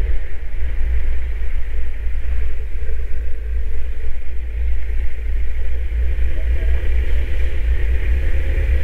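Kawasaki Z900 motorcycle running steadily while being ridden, with heavy wind rumble on the microphone.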